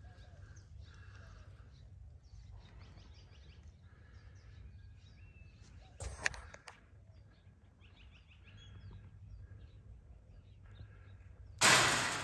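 Faint birds chirping over outdoor background noise, with a short knock about six seconds in. Near the end a sudden loud burst of noise, the loudest thing here, fades over about a second.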